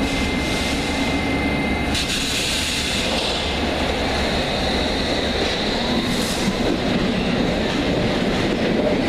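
London Underground S7 Stock train running on the track, with a thin steady whine for the first two seconds and a hiss that comes in about two seconds in.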